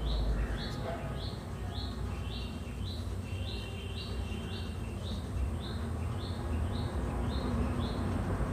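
A small bird calling repeatedly in the background: a short, high, chirping note about twice a second, over a faint low hum.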